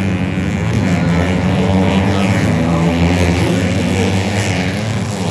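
Racing underbone (bebek) motorcycle engines running hard on a dirt track, a loud, steady drone whose pitch wavers slightly as the bikes rev.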